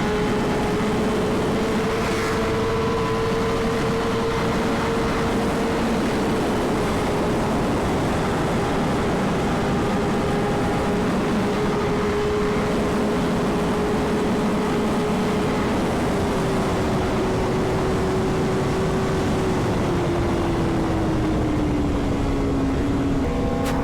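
Sport bike engine held at high, steady revs at high speed, heavy wind rush over the helmet mixed in. The engine note eases slowly lower over the last several seconds as the revs come down.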